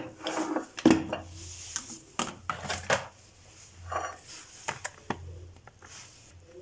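Kitchenware and food storage containers being handled and set down: a string of clinks, knocks and clatters, busiest in the first three seconds, with one ringing clink about four seconds in, then fewer and fainter.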